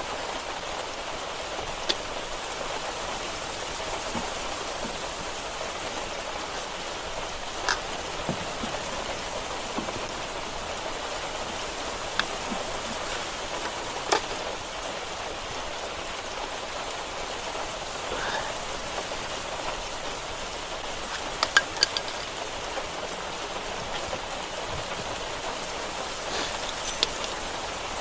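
Steady rain hiss, with a handful of short sharp clicks and knocks scattered through it, a quick cluster of them about three-quarters of the way in.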